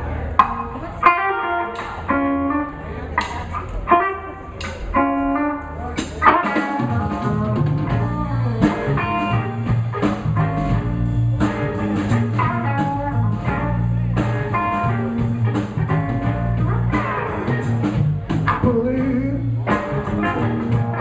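Live blues band playing an instrumental passage: a guitar picks out lead lines alone at first, and about six seconds in bass and drums come in under it with a steady beat.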